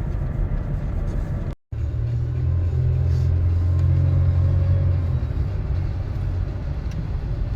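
A car driving, with a steady low rumble of engine and road noise. It cuts out abruptly for a moment about a second and a half in, then comes back heavier for a few seconds before settling.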